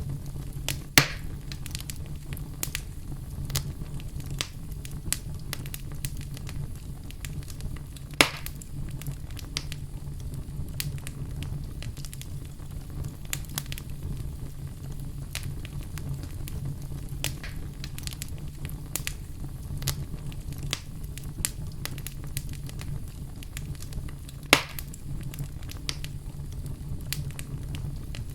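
Wood fire burning in a fireplace: a steady low rumble with frequent small crackles, and three louder pops about a second in, about eight seconds in, and near the end.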